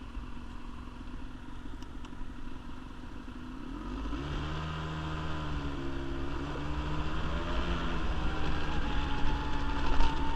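Quad bike (ATV) engine running under way, rough and steady at first. About four seconds in it picks up and grows louder. A higher whine rises slowly toward the end.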